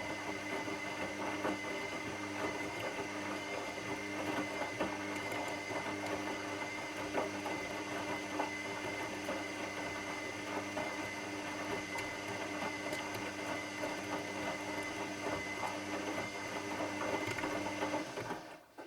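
Washing machine running: a steady motor whine with constant rattling and clicking, cutting off suddenly near the end.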